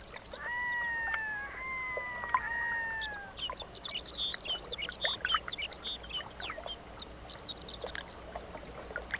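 Loon calling: three long, slightly falling wailing notes in the first three seconds, then a run of many short, high chirps.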